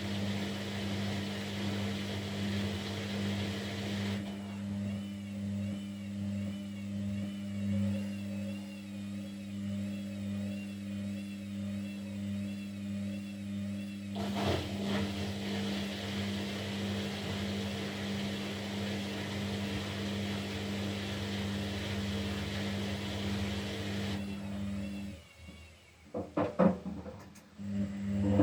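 Kunft washing machine running its wash cycle: a steady motor hum with a wavering whine, changing as the drum motor shifts about every ten seconds. Near the end it briefly drops off, then comes a few sharp clicks and knocks.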